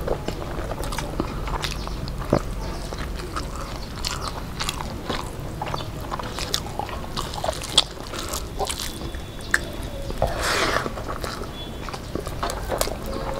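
Close-miked mukbang eating sounds: chewing and lip smacks as rice and fried fish are eaten by hand, an irregular run of short, wet clicks, with a brief louder rush of noise about ten seconds in.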